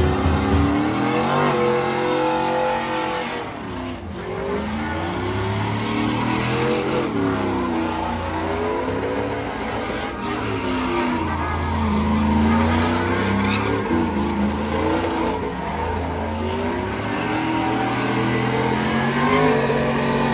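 A vehicle engine revving up and down over and over, its pitch rising and falling every couple of seconds over a steady low drone, with some tyre noise.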